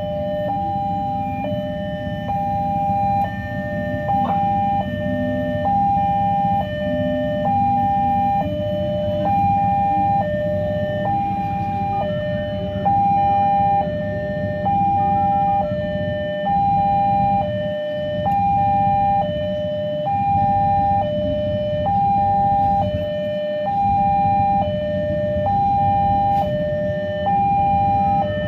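Railway level-crossing warning alarm sounding: an electronic two-tone signal switching between a higher and a lower note about every second, steady and repeating, which warns that a train is approaching. A low steady rumble runs underneath.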